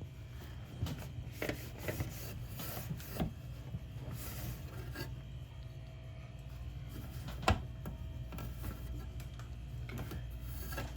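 Cloth wiping and rubbing over the plastic inside of a mini fridge, in irregular strokes with scattered light clicks and one sharper knock of plastic about two-thirds of the way through.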